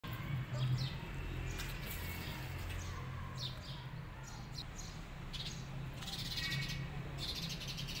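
Small birds chirping and chattering: many short, quick, downward-sliding chirps, denser toward the end, over a low steady hum.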